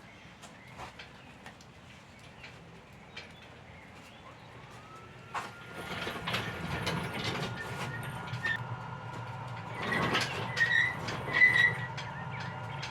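Scattered light clicks, then about five seconds in a motor starts with a rising whine and runs on with a steady low hum and a steady whine above it. A few short high chirps sound near the end.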